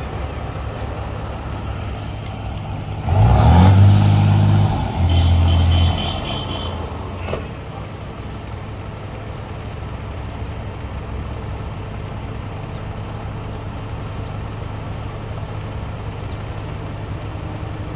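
Heavy diesel construction equipment running steadily. About three seconds in, a loud low pitched drone rises in and holds for about three seconds, with a short break in the middle, before the steady running returns.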